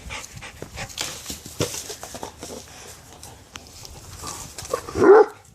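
Dog panting and moving about, irregular breathy huffs with small scuffs and clicks, then a short louder voiced sound near the end.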